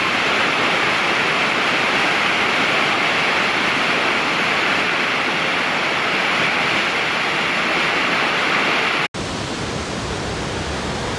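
Steady rush of falling water from a waterfall. About nine seconds in it cuts off abruptly and gives way to a slightly quieter stretch of rushing water.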